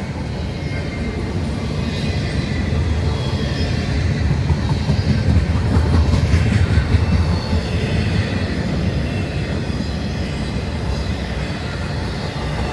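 Intermodal freight train's cars rolling past: a steady rumble of wheels on rail that swells for a few seconds in the middle and eases off again.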